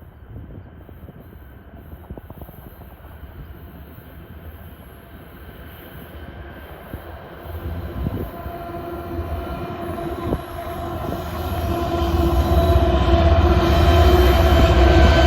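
Freight train approaching, its rumble growing steadily louder, with steady tones coming in during the second half as it nears.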